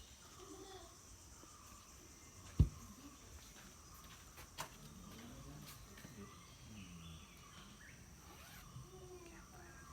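Faint, steady high-pitched drone of insects in a rural garden. A single sharp thump comes about two and a half seconds in, and a lighter click follows about two seconds later.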